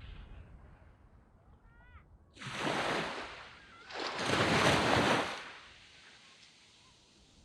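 Small waves breaking and washing up a sand beach: two surges of surf about halfway through, the second louder, between quieter lulls.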